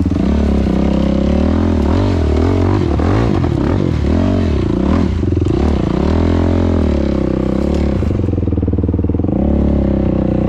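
Yamaha YFZ450R quad's single-cylinder four-stroke engine, breathing through a Rossier R5 aftermarket exhaust, running at low speed, its pitch rising and falling with throttle changes for a few seconds in the middle, then steady.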